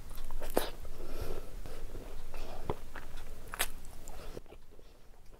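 A person chewing a full mouthful of Indian street-food snacks, wet chewing broken by several sharp crunches. The chewing dies down about four and a half seconds in.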